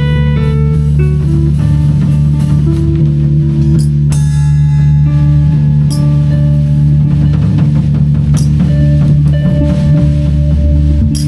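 Live improvised band music: drums and cymbal strikes over a sustained low drone, with short melodic lines early on.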